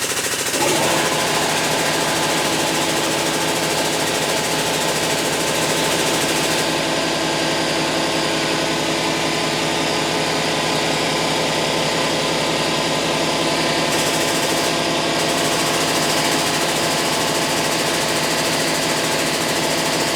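Air-over-hydraulic pump on an engine hoist's ram running steadily as a fast, even mechanical chatter, starting about a second in and holding at one level.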